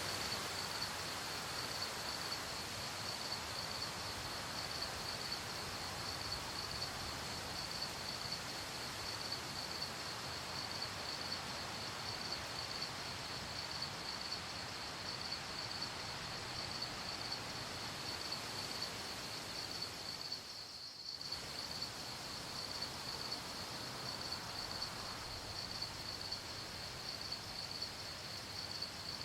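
A night chorus of crickets chirping in a steady, fast pulsing trill over a soft even hiss of background noise. The whole sound dips briefly about two-thirds of the way through.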